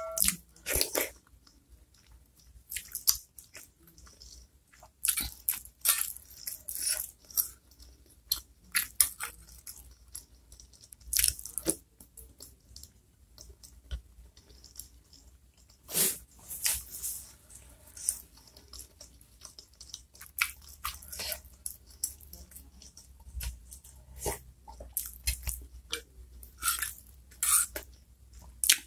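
Close-miked chewing of soft chicken meatballs in chili soup: irregular short mouth clicks and smacks, with quiet gaps between.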